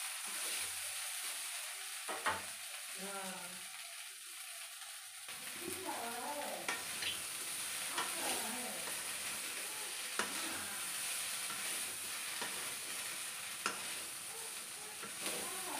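Potato and cauliflower pieces sizzling as they fry in a steel kadhai, a steady hiss. A wooden spatula knocks and scrapes against the pan now and then as the vegetables are stirred, about five sharp taps.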